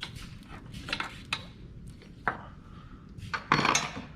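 Metal clinks and knocks from hand tools and the sway bar bushing bracket being taken off, with a short louder rattle about three and a half seconds in.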